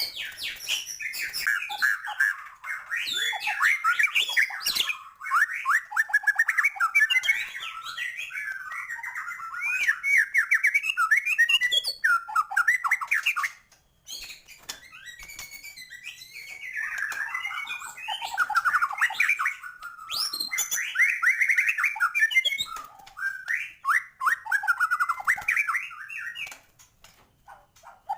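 White-rumped shama singing a fast, varied song packed with mimicked phrases. It breaks off briefly about halfway through and again near the end.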